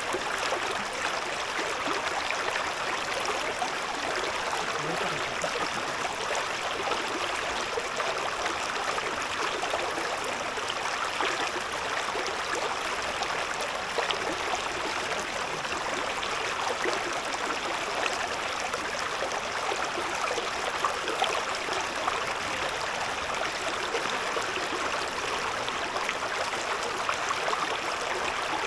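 Shallow river babbling over stones, a steady rush of water with small splashes and gurgles throughout.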